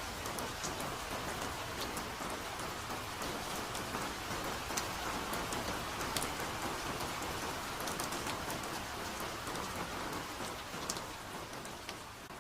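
Soft forest rain: a steady hiss of rainfall with many individual drops ticking close by, easing slightly quieter near the end.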